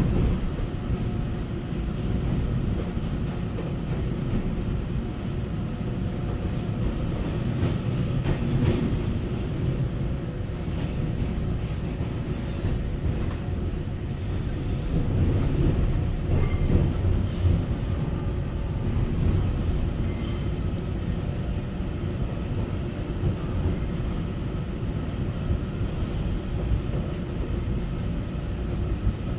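Taiwan Railway EMU900 electric multiple unit running on the rails, heard from inside the carriage. It is a steady rumble with faint steady tones over it and a few scattered clicks from the track.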